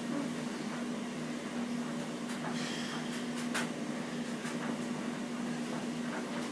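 Steady electrical hum with a few short clicks and scrapes about two to four seconds in, from hands twisting at the stiff cap of a nail varnish bottle.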